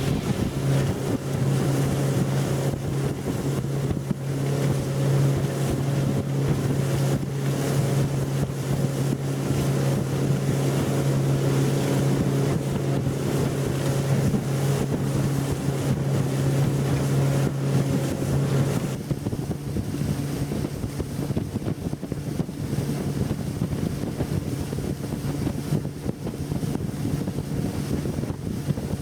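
Yamaha F90C four-stroke outboard motor running at speed on a planing boat, a steady engine drone under wind buffeting the microphone and the rush of water. About two-thirds of the way through, the engine note drops lower and weaker.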